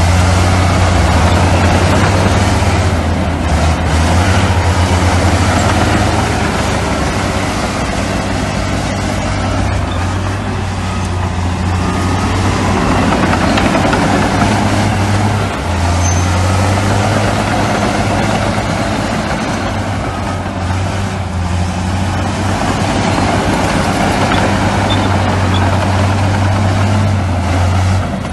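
Heavy diesel construction machinery, bulldozer and dump truck engines, running continuously with a steady low drone under broad mechanical noise; the drone weakens for a few seconds about halfway through, then comes back.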